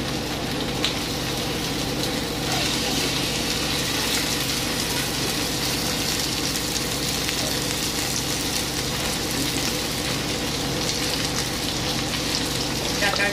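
Marinated chicken pieces sizzling in a hot frying pan as they are tipped in from a bowl. The sizzle grows louder a couple of seconds in, over a steady low hum.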